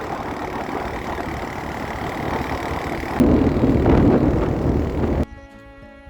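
Motor vehicle engine running with rough rumble and wind noise on a rough off-road track, getting louder about three seconds in. It cuts off suddenly near the end and background music with held notes takes over.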